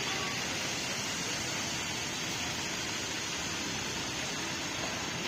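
Steady background din of a bus terminal, engines and traffic blending into an even hiss with no clear pitch.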